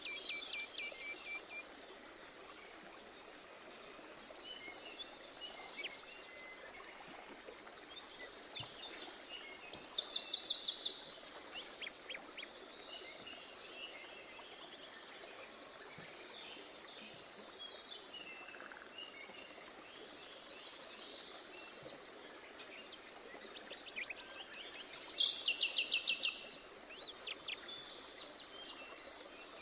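Small songbirds singing and chirping over the steady rush of a mountain stream. A loud, rapid trill about a second long comes about a third of the way in and again near the end.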